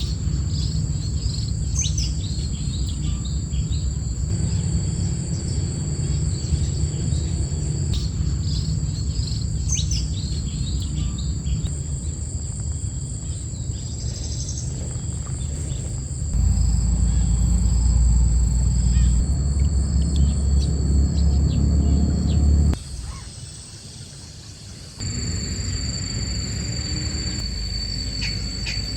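Steady high-pitched insect trilling, with a low rumble underneath and a few scattered bird chirps. The sound shifts abruptly a few times, getting louder low down about halfway and briefly dropping away near the end.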